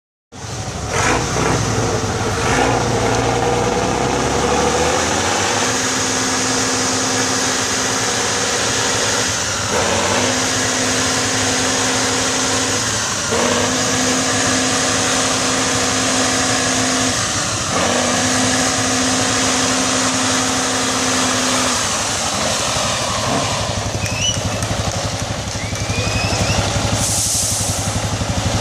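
Competition trial truck's diesel engine working under load. Its engine note holds steady for a few seconds at a time, with brief dips between, about four times over.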